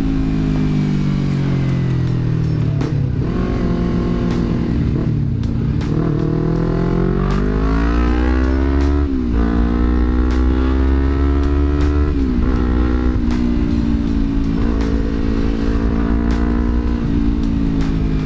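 Yamaha R25's parallel-twin engine running through a Villan MV1 aftermarket exhaust while riding, its note climbing under throttle and dropping sharply at gear changes, once about halfway and again a few seconds later.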